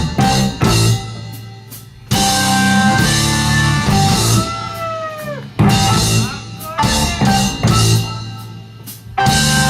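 Hard rock band playing live in a stop-start passage: full-band hits on drums, bass and guitar, each left to ring and fade. About halfway through, a guitar note bends down in pitch.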